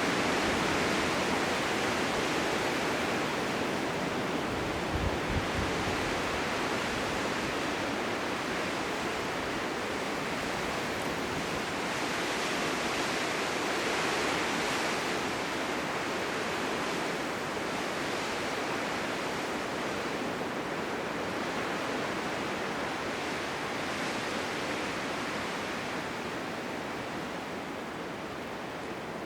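Blizzard wind: a steady rushing noise that swells and eases in slow gusts, with a brief low thump about five seconds in.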